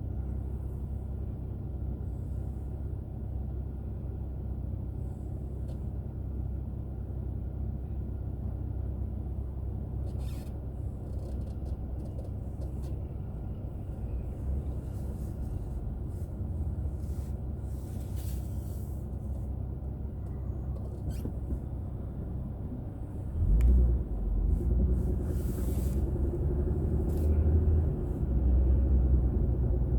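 Car engine and road noise heard from inside the car: a steady low rumble that grows louder about 23 s in, with a slowly rising engine note as the car accelerates.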